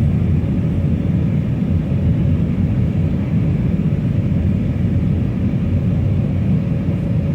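Steady low rumble of engine and airflow noise inside the cabin of an Airbus A319 in flight, with a faint steady hum above it.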